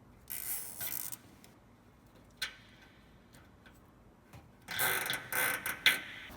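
Nylon zip ties being pulled tight to hold a rock light under the truck, giving rapid ratcheting clicks. One short burst comes just after the start, a single click falls in the middle, and a longer burst comes near the end.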